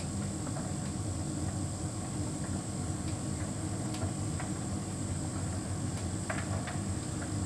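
Hotpoint heat pump tumble dryer running, a steady mechanical hum with a thin high whine and a few faint light ticks.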